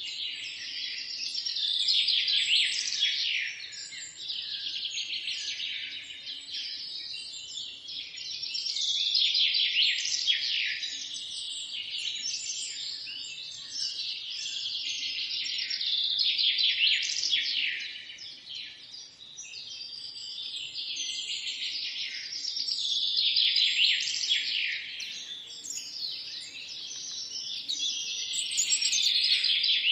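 A chorus of songbirds chirping and trilling together, the singing swelling louder and easing back about every seven seconds.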